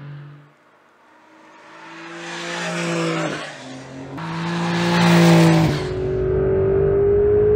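Porsche 911 flat-six engine and exhaust accelerating, growing louder after a brief lull. The note drops twice, about three and six seconds in, as it shifts up, then holds steady.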